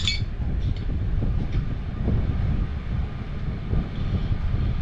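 Steady low rumble throughout, with a sharp metallic click at the start and a couple of lighter clicks soon after, from gas valve fittings and parts being handled.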